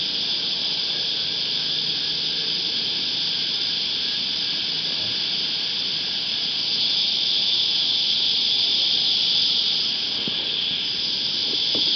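Cicadas calling in a steady high-pitched chorus that swells louder for a few seconds past the middle, then eases back.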